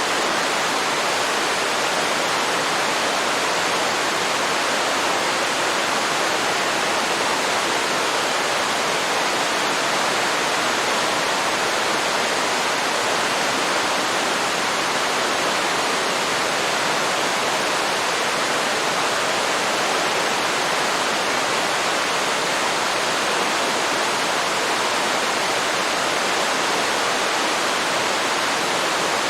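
Waterfall: water falling and rushing in a steady, even hiss-like wash of sound, with no breaks or separate splashes.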